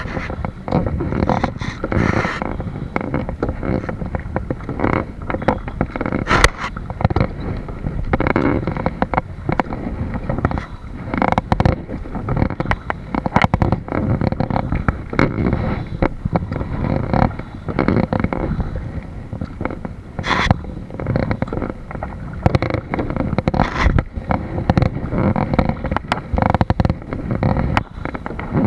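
Wind buffeting the microphone over water sounds from a kayak, uneven and gusty, with frequent small knocks and clicks.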